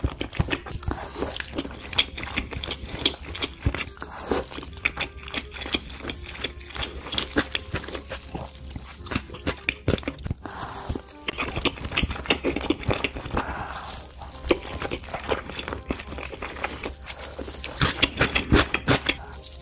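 Close-miked chewing of shrimp nigiri sushi: rapid wet clicks and smacks of a full mouth working through the food.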